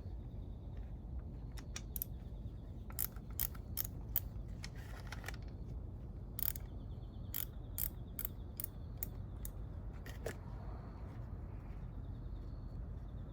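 Irregular runs of sharp clicks and clinks, like hand tools and small engine parts being handled, over a low steady hum with a faint high pulsing whine.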